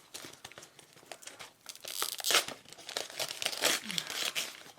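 Crinkling and tearing of a Milano cookie bag being handled and opened by hand, with two louder spells of rustling past the middle.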